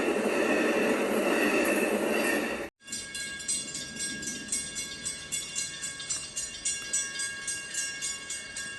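Amtrak passenger train running by with a steady rumble and rush of wheels on rail. It cuts off abruptly a little under three seconds in. Music with a quick jingling, tambourine-like beat then takes over.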